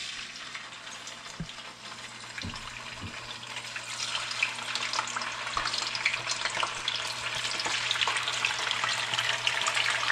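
Tofu slabs sizzling in hot oil in a frying pan, with crackling spatters. The sizzle starts suddenly as the first piece goes in and grows louder as more pieces are added, with a few soft knocks in the first half.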